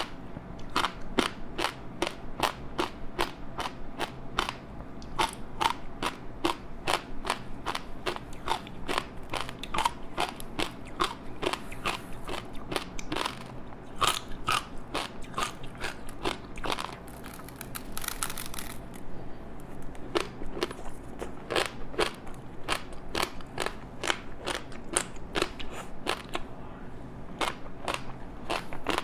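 Close-up chewing of a crispy seaweed-wrapped rice snack: a steady run of crisp crackles and crunches, about three a second, easing off briefly a little past halfway.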